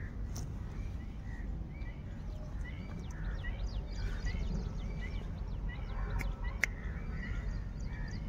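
Birds chirping, a short call repeating about twice a second with thinner high chirps among them, over a steady low rumble. A single sharp click comes about six and a half seconds in.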